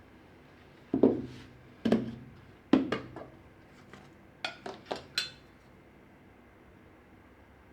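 Dishes and utensils knocking and clinking. Three duller knocks come about a second apart, then a quick cluster of four higher, ringing clinks around the middle.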